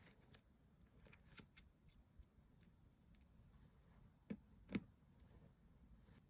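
Slime being handled, mostly near silent: a few faint sticky clicks, then two sharper clicks about half a second apart roughly two-thirds of the way through.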